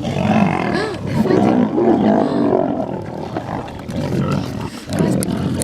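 Lions growling and snarling over a gazelle kill, one rough, pitch-bending sound after another, loudest in the first half.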